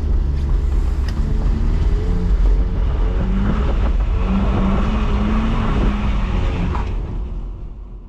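BMW E46 320i's M54B22 2.2-litre inline-six running at modest revs, its note wavering, over a steady hiss; the sound fades out near the end.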